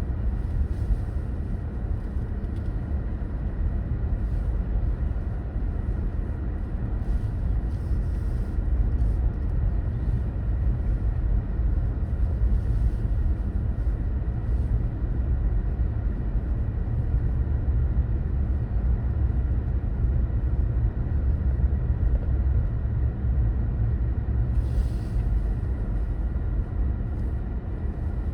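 Steady low rumble of a car being driven: engine and tyre noise on the road, with a few brief hissing swells now and then.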